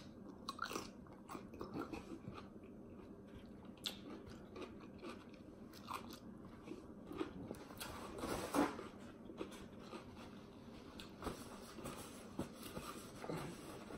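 Close-up eating sounds: crunching and chewing of cucumber slices, with scattered small crisp clicks and one louder noisy stretch about eight and a half seconds in.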